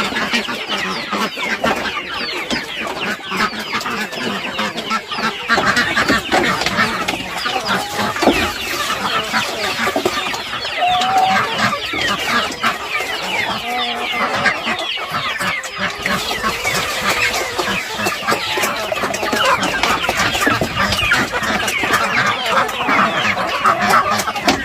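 A large flock of chickens clucking continuously, many birds calling over one another.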